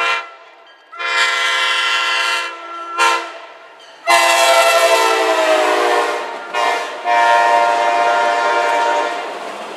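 Amtrak Northeast Regional locomotive's multi-note horn sounding a series of blasts: a long one, a short one, a long one, a short one, then a long one near the end. The chord slides lower during the middle long blast as the train passes.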